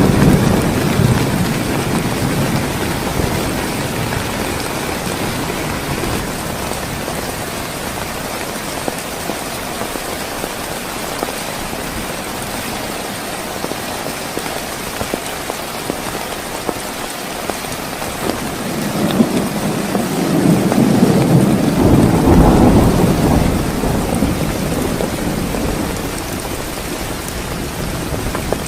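Heavy rain falling steadily in a thunderstorm. A rumble of thunder dies away in the first couple of seconds, and a longer roll of thunder swells about two-thirds of the way through, then fades.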